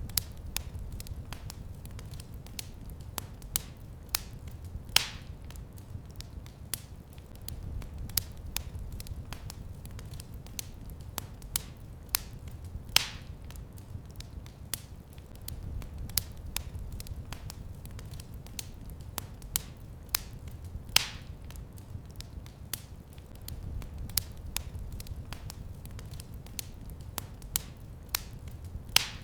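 Wood fire crackling in a fireplace: frequent small irregular pops over a low rumble, with a louder sharp snap about every eight seconds.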